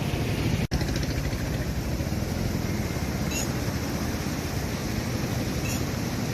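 Steady rush of floodwater pouring over an overflowing dam, a dense, even roar with a brief cut-out less than a second in.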